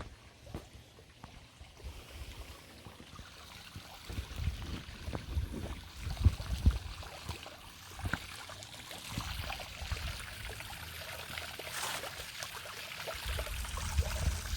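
A thin flow of water trickling and splashing over the waterfall's rock ledge, growing plainer after about eight seconds. Low thumps and rumbles on the microphone run through it.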